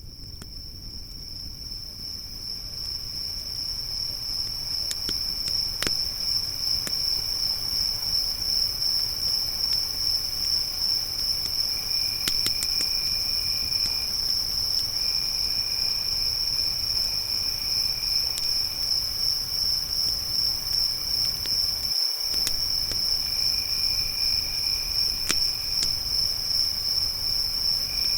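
Crickets chirping in a steady, high, continuous trill, with a second, lower insect call coming and going. Occasional sharp crackles from a campfire sound over it. The whole sound fades in over the first few seconds.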